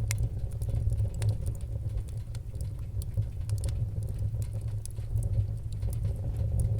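Wood fire in a fireplace crackling: irregular sharp pops and ticks, several a second, over a steady low rumble.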